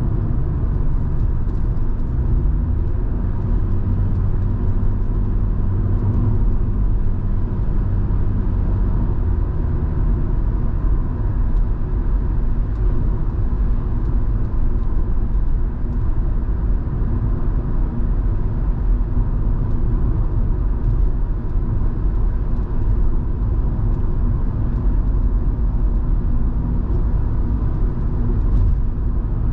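Inside the cabin of a moving Volvo V70 2.5T: a steady low road rumble, with the turbocharged inline-five engine running evenly.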